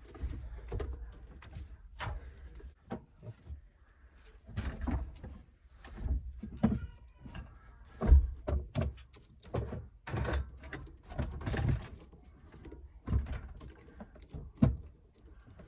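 Tools and metal parts being handled: irregular clanks, clicks and knocks, several of them sharp, scattered through the whole stretch.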